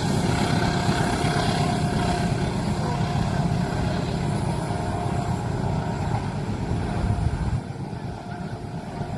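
A train passing with a heavy, steady low rumble that drops off sharply about seven and a half seconds in.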